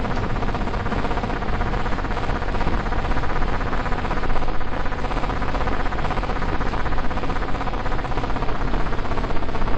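Steady mechanical running noise with a faint constant whine, from a CNC milling-engraving machine at work.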